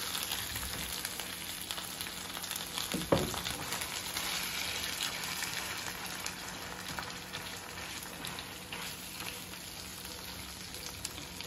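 Ground beef and refried beans frying in grease in a small stainless-steel skillet: a steady sizzle, with the scrape of a wooden spoon stirring them. There is one sharp knock about three seconds in.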